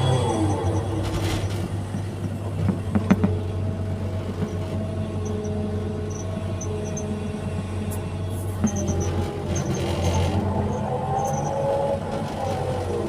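Excavator's diesel engine running under load with a steady low drone, its pitch dipping near the start and rising again near the end as the hydraulics are worked. A few sharp knocks come about three seconds in.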